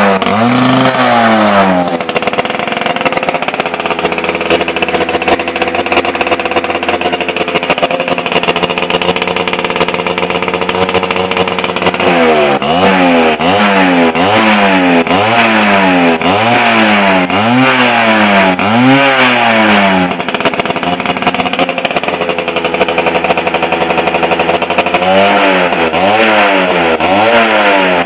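Underbone motorcycle engine running through its stock exhaust. It idles steadily, then is blipped repeatedly, about six quick revs rising and falling for several seconds, settles back to idle, and is revved again near the end.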